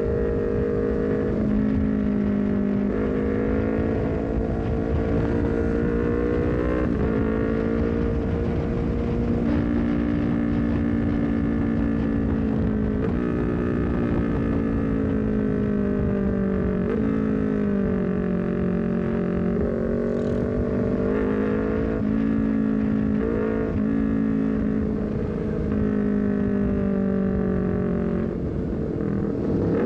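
Honda CBR250RR parallel-twin engine through a full-system aftermarket exhaust with a short Leovince GP Corsa carbon silencer, heard while riding: the engine note rises and falls and jumps abruptly in pitch every few seconds as the gears change, over steady wind and road noise.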